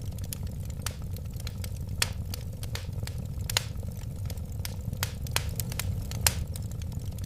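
Wood fire burning, with irregular sharp crackles and pops several times a second over a steady low rumble of the flames.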